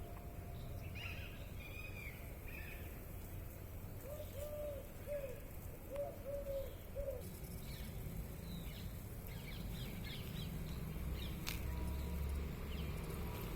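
Birds calling: a few high chirps, then a run of six low, arched call notes in two groups of three, followed by more scattered high chirps, over a steady low rumble.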